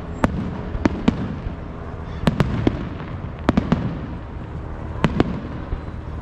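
Aerial fireworks bursting: about ten sharp bangs, several coming in quick pairs, over a steady background of noise.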